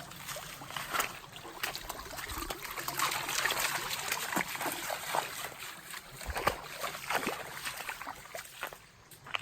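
Golden retriever splashing through a mountain stream: irregular splashes and sloshing over the trickle of running water.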